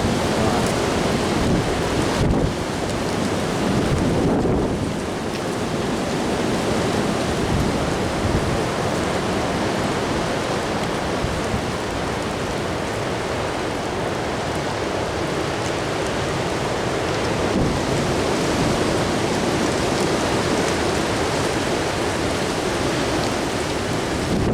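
Strong gusting wind: a loud, steady rush with a heavy low rumble from the wind buffeting the microphone, swelling and easing slightly.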